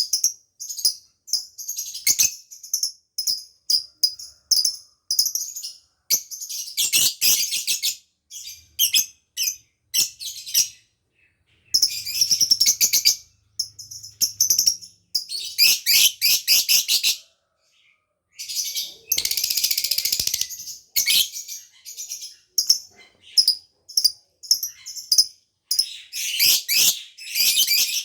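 Lovebird singing: sharp high chirps in quick series, broken every few seconds by longer runs of rapid chattering.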